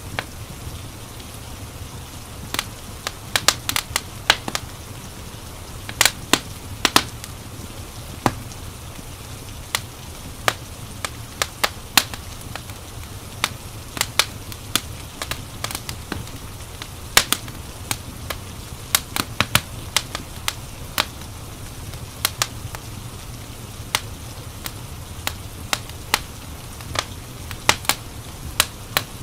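Crackling wood fire: irregular sharp pops and snaps, sometimes in quick clusters, over a steady low hiss.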